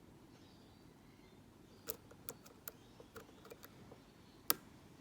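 Lock pick working the pin stack inside a Mako pin-tumbler padlock: a scattered series of small, sharp clicks, the loudest about four and a half seconds in.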